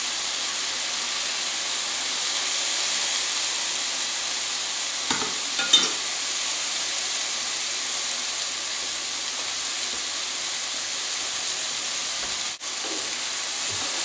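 Porcini slices and risotto rice sizzling steadily over high heat, a continuous frying hiss, while a wooden spoon stirs the rice in a steel pot. A couple of short knocks of the spoon against the pot come about five to six seconds in.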